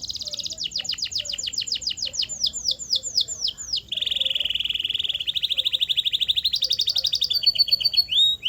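Canary singing a continuous song: a fast trill of rapidly repeated notes slows into a string of falling whistled sweeps, then about halfway through switches to a lower, very fast trill, which shifts to a higher trill near the end before more falling sweeps.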